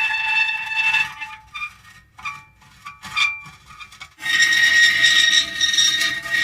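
Metal creaking: a sustained, high-pitched squeal that breaks off about a second in into short separate squeaks, then starts again, strong and steady, about four seconds in.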